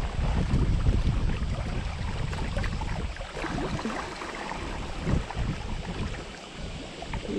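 Wind buffeting the microphone over the sound of sea water, an uneven rushing rumble that eases off somewhat in the second half.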